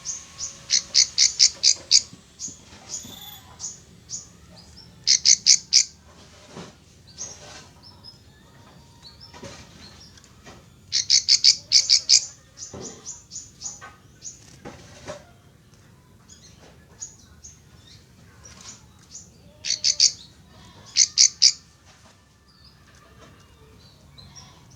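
Prinia (ciblek sawah) calling in bouts of rapid, sharp, high chirps, six or more notes to a bout at about five a second, repeated several times with scattered single chirps between. It is answering a played lure call.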